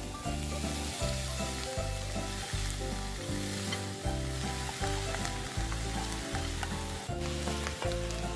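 Boiled pork hock sizzling in hot oil with sautéed onion and garlic in a frying pan, stirred with a wooden spatula near the end.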